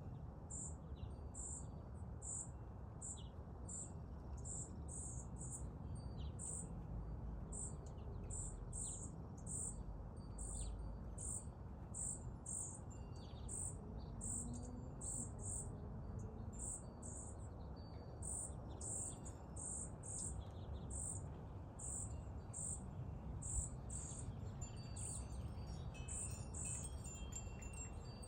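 A hungry baby bird's scattered short begging cheeps over a steady high-pitched chirp that repeats about one and a half times a second, typical of a cricket.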